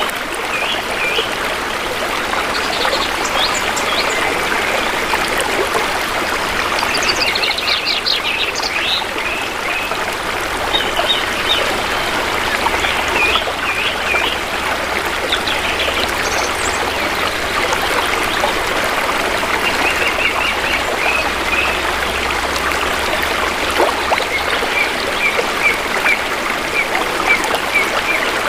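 Shallow river water flowing steadily with a continuous trickle. Forest birds chirp over it in short, repeated calls throughout.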